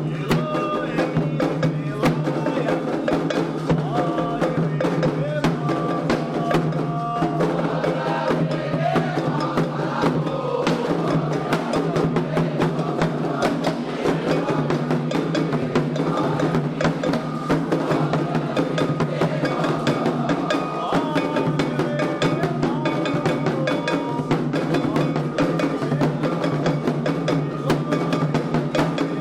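Candomblé ritual music: atabaque hand drums and other percussion playing a fast, steady rhythm under voices chanting a sung Yoruba-language song to the orixás.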